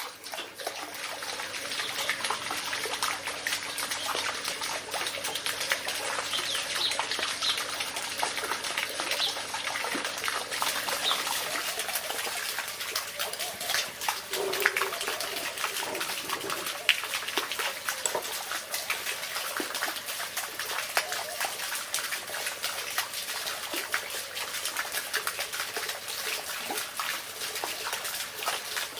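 Steady water-like trickling and splashing, dense with small clicks and crackles, with a few short high chirps early on.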